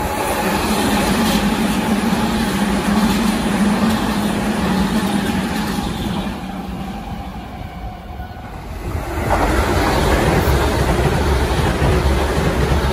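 Tobu 100 series Spacia limited-express electric train passing close by: a steady rumble of wheels on rails that eases off about six seconds in and swells again about nine seconds in.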